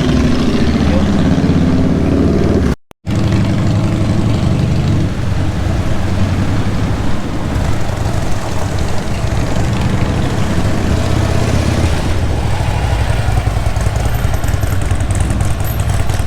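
Motorcycle engines running on a street, a steady low rumble, with a brief complete cut-out of sound about three seconds in.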